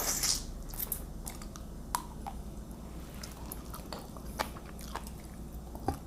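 Close-up eating sounds: a person chewing and biting a mouthful of shrimp, mussels and fettuccine in sauce, with scattered sharp wet clicks and smacks of the mouth.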